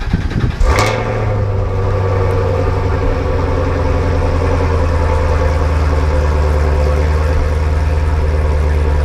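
An engine catches with a brief rev under a second in, then settles into a steady idle.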